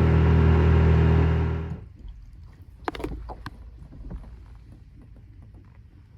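Boat motor running steadily, then cut off suddenly about two seconds in, leaving a quiet stretch with a few light knocks.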